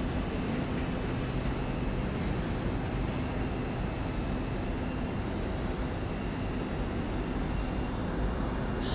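Steady railway station background noise under a train shed: a constant low hum, with nothing standing out.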